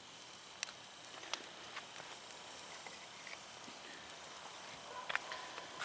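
Firewood burning in an open fire and crackling: a few sharp, irregular pops over a faint steady hiss.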